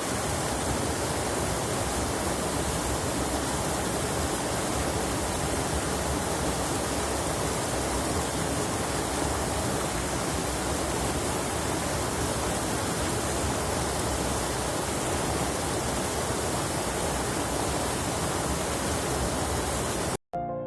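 Steady, even rush of flowing water, like a waterfall, unchanging throughout, then cutting off suddenly near the end as soft music begins.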